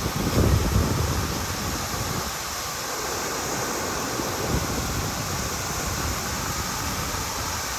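Waterfall rushing steadily, with wind buffeting the microphone in the first second or so.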